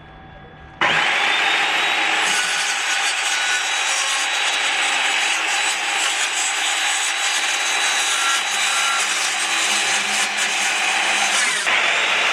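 A saw cutting through wood: a loud, steady cutting noise that starts suddenly about a second in, with a brief break near the end.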